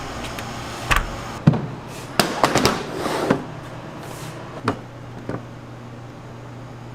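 A run of sharp knocks and clatters, several in the first half, then a steady low hum.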